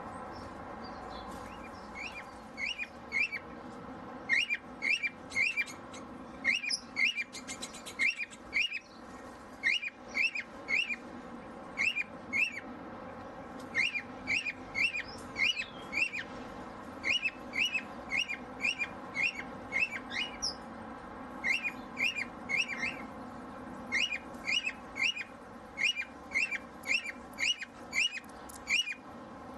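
A bird calls repeatedly in quick clusters of two to four short, high chirps, a group about every second.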